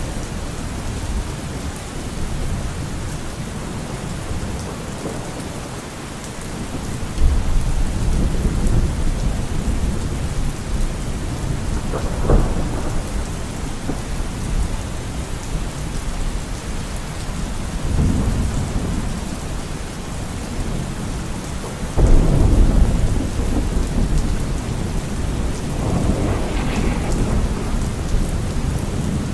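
Steady heavy rain with rolling thunder: low rumbles swell up several times, two of them starting suddenly, one about a quarter of the way in and one about three quarters in, with a sharper crack between them.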